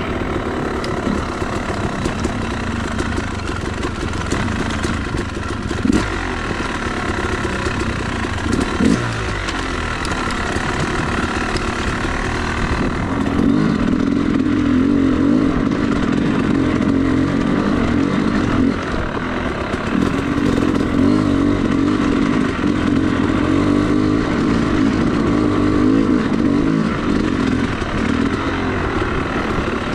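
Yamaha YZ250 two-stroke dirt bike engine running while being ridden, with a couple of knocks in the first half. From about halfway through the revs are held steady and higher, easing off briefly once before picking up again.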